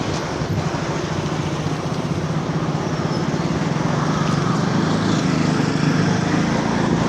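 Street traffic with a motor vehicle engine running close by: a steady low engine hum over road noise that grows slightly louder in the second half.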